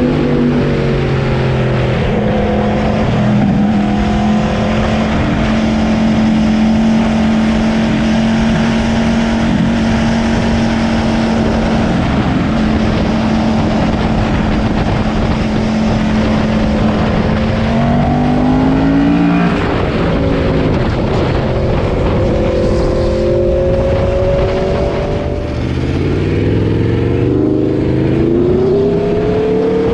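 Aprilia RSV4's V4 engine through a RaceFit aftermarket exhaust, held at a steady pitch under way for a long stretch, then revving up and dropping back about two-thirds through, and accelerating with a rising note near the end, over a steady rush of noise.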